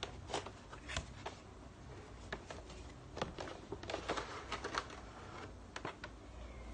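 A figure box being opened by hand: scattered light clicks and rustles of packaging, busiest in the middle.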